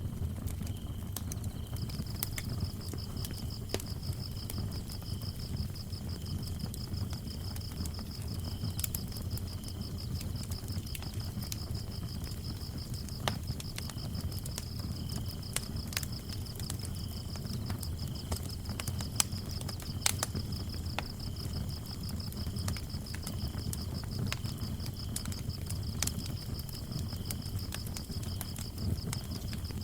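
Wood fire burning in a fireplace, a low steady rumble of flames with scattered sharp crackles and pops, while crickets chirp in two steady high trills, the higher one joining about two seconds in.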